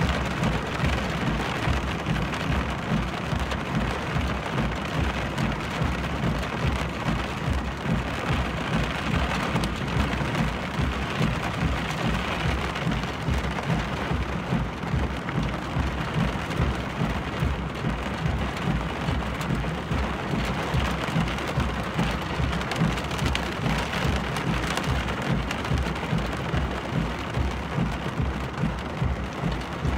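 Steady rain noise heard from inside a vehicle on the road at night, with a fast, even low pulsing underneath.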